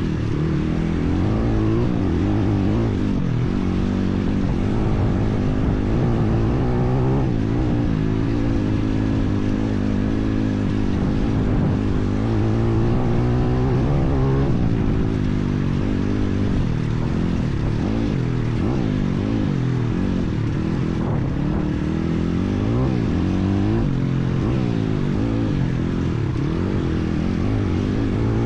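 IMR 160cc pit bike's single-cylinder four-stroke engine running, its pitch rising and falling again and again as the throttle is opened and closed.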